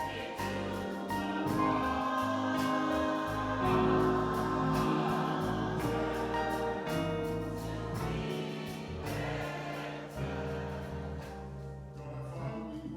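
Gospel music: a choir singing with instrumental accompaniment and percussion keeping the beat.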